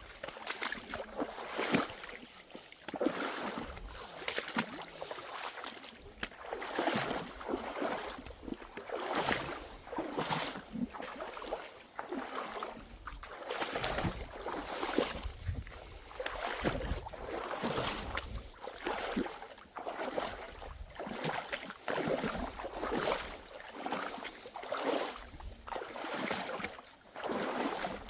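Footsteps of a person walking on a wet, muddy trail, about one step a second.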